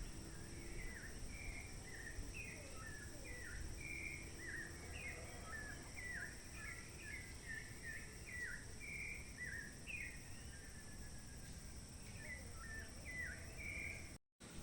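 Many birds calling, a busy run of short chirps that slide downward in pitch and overlap one another, over a steady low rumble. The sound drops out for a moment near the end.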